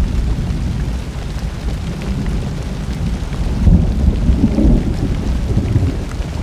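Summer thunderstorm: low rolling thunder rumbling and swelling about two-thirds of the way through, over steady rain.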